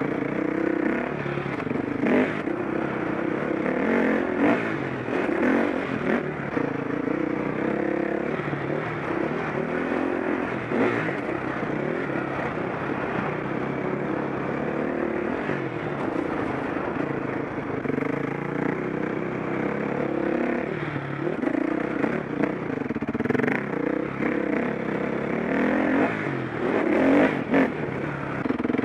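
KTM 525 SX single-cylinder four-stroke motocross engine revving up and down as the bike is ridden around a dirt track, with a few sharp knocks and clatter from the bike.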